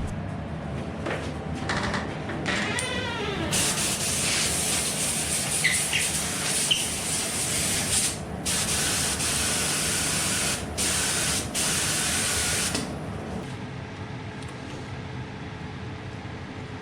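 Small HVLP spray gun spraying thinners through to flush out leftover red paint: a steady hiss of about nine seconds, cut briefly three times as the trigger is let go. Short handling clicks come before the spraying starts.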